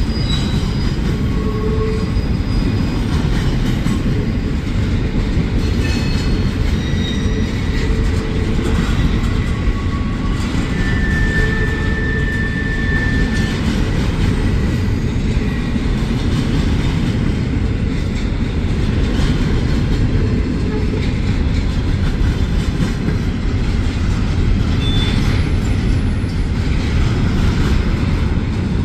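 Loaded double-stack intermodal well cars of a freight train rolling past: a steady rumble of steel wheels on rail. Brief high wheel squeals come and go, one held for a couple of seconds about eleven seconds in.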